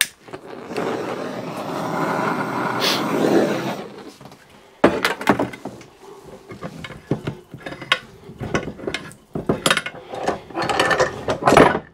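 A heat gun blowing steadily for about three seconds to warm the Simson S51 engine case, then a run of short metallic knocks and clinks as parts in the case are tapped and handled.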